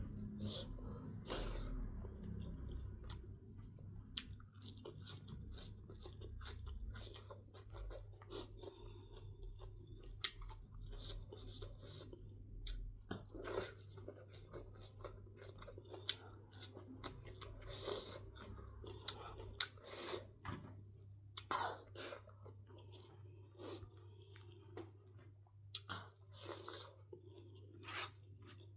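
A person chewing smoked pork close to the microphone, with irregular crunches and wet mouth clicks.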